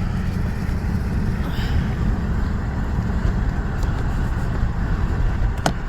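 Steady road and engine rumble inside a moving car's cabin, with a single sharp click near the end.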